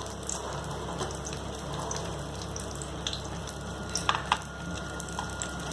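Spring rolls frying in hot oil: a steady sizzle with scattered crackles, and a few sharper pops about four seconds in.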